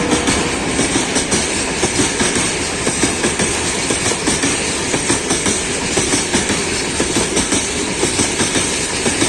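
A freight train rolling past close by. The wheels clatter steadily over the rail joints in a regular clickety-clack, a few knocks a second.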